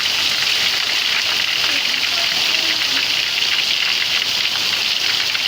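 Heavy rain falling steadily on surfaces, an even hiss.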